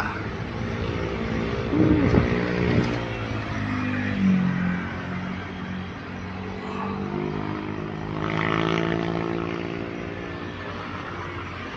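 Motor vehicle engines running on a road, their pitch shifting as they go by. The loudest pass comes about two seconds in, with another swell near the end.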